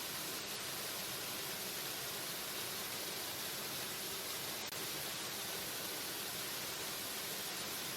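Waterfall: a steady, even rush of falling water, with one very brief dip just past halfway.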